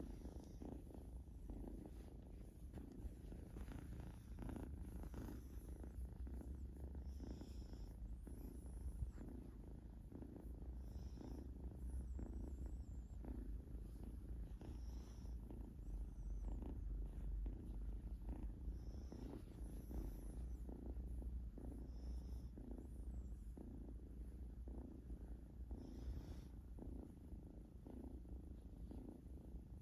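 Domestic cat purring steadily, a continuous low pulsing purr.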